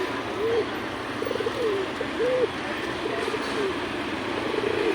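Domestic pigeons cooing, a run of short rolling coos repeated over and over, over a steady hum of passing traffic.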